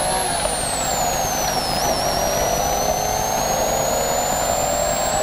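BMW M3 rally car's engine heard inside the cabin, driven hard. The revs fall for about two seconds, then climb steadily through the rest.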